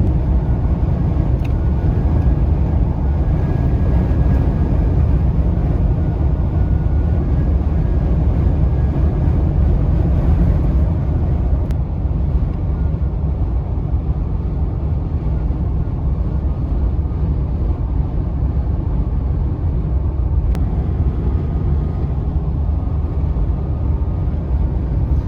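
Steady low rumble of road and wind noise inside a pickup truck's cab while driving in high winds.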